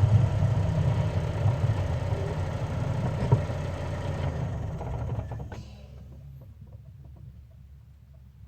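Car running, a steady low engine and road rumble that drops away sharply about five and a half seconds in, leaving a faint low hum with light ticks.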